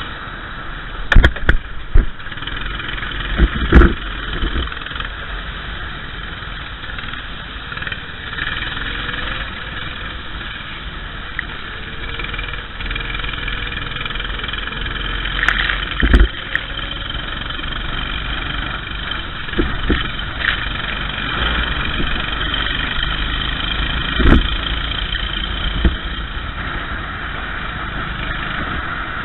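Racing kart's engine running with a steady hiss over it, broken by several sharp knocks: a few close together in the first four seconds, then single ones about a third and four-fifths of the way through.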